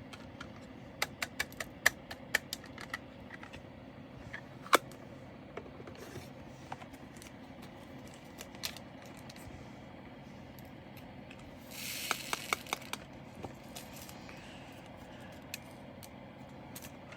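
Small hard plastic clicks and taps of diamond-painting resin drills and their containers being handled, a cluster of quick clicks in the first few seconds and one sharper click about five seconds in. About twelve seconds in comes a brief rustle with rapid clicking, like drills being poured into a small plastic bag.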